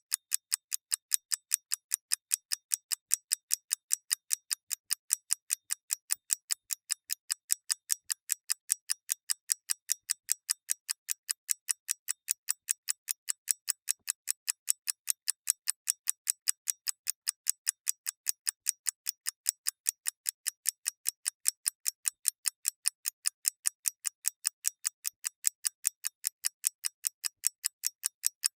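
Clock mechanism ticking steadily, quick even ticks at about four a second.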